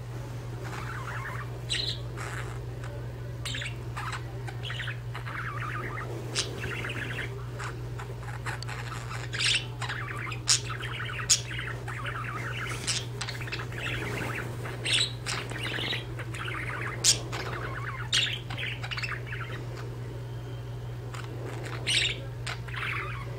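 Two budgerigars chattering and warbling continuously, with frequent sharp chirps standing out above the warble, over a steady low hum.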